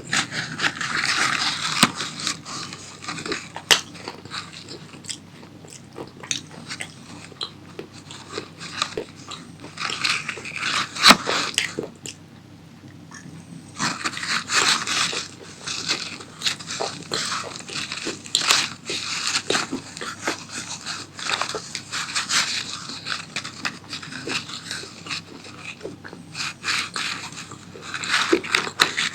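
A person biting and chewing crunchy tomato pasta close to the microphone, in bouts of loud, crackly crunching. There is a short lull about twelve seconds in.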